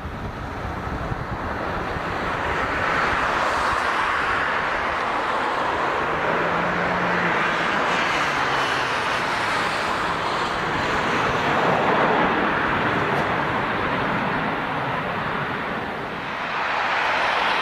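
Jet airliner engines running, a steady rushing noise that builds over the first few seconds and then holds level.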